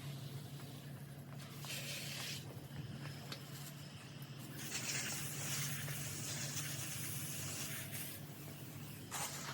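Bursts of hissing water spray, as from a garden hose nozzle: a short burst about two seconds in, a long one of about three seconds mid-way, and a brief one near the end, over a steady low hum.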